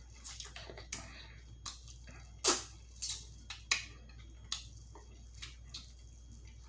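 Close-miked eating sounds: irregular wet mouth smacks and clicks while chewing, the loudest about two and a half seconds in.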